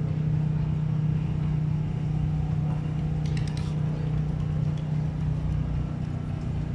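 A machine running with a steady low hum, and a short run of clicks about three seconds in.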